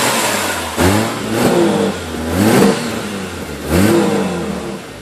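Toyota 1JZ straight-six engine catching and revving up and down in about four surges, as though the throttle is being pumped to keep it alive, then dropping away near the end. This is the sign of the no-start problem: it will not settle into a steady idle.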